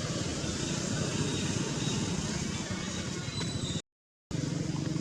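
Steady low background rumble, broken near the end by a half-second of total silence at an edit cut.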